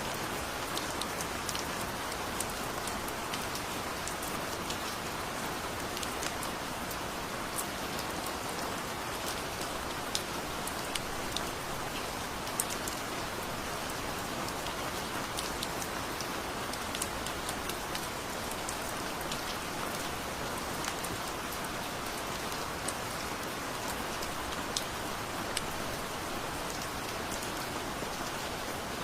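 Heavy rain falling steadily: a dense, even hiss with many separate drops ticking sharply through it.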